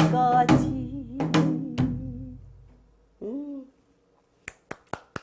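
Janggu, the Korean hourglass drum, playing the closing strokes of a waltz-rhythm accompaniment under a sung last word; the strokes ring out and fade away within about three seconds. A few sharp clicks follow near the end.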